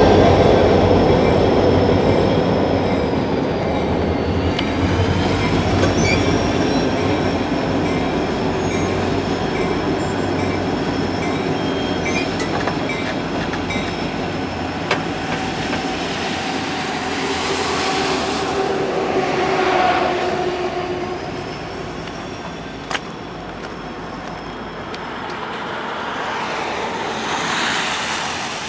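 Train cars rolling past on the rail with clickety-clack and a high, wavering wheel squeal, gradually fading as the train draws away.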